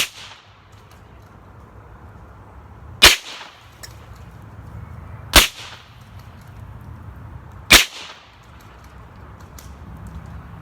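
.22 rifle fired four times, a few seconds apart, each shot a sharp crack with a short echo.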